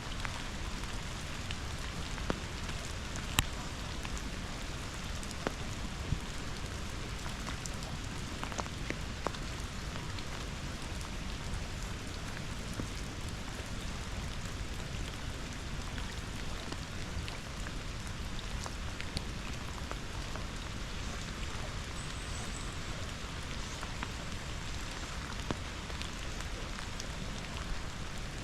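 Steady rain falling, with scattered louder drops tapping close by, over a constant rush of river water.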